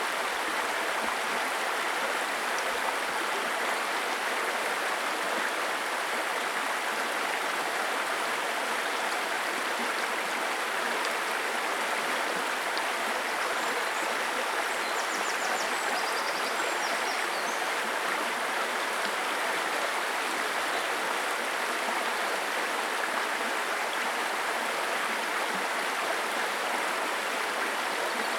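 Babbling brook: shallow water running steadily over stones, an even rushing and burbling that never lets up.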